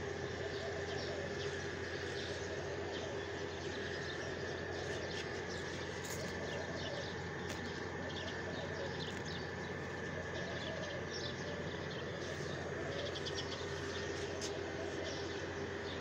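Small birds chirping, many short calls scattered throughout, over a steady background hum.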